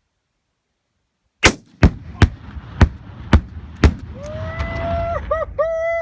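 A rifle shot sets off an explosive charge inside a safe. A single very loud blast comes about a second and a half in, followed by five more sharp cracks over the next two seconds with a rumble under them. Near the end there is a held, pitched shout in short pieces.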